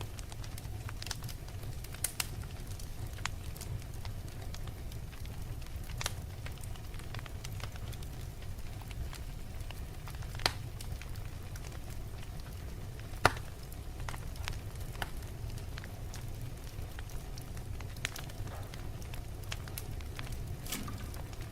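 Wood fire crackling: a steady low rumble of flames with irregular sharp pops, two louder ones about ten and thirteen seconds in.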